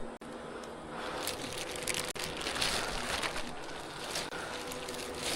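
Irregular rustling and crinkling, starting about a second in, over a faint steady hum.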